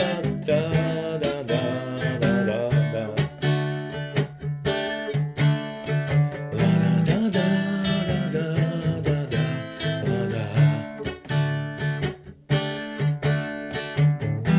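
Acoustic guitar strumming chords steadily through an instrumental break of a song, with a short drop in level about twelve seconds in.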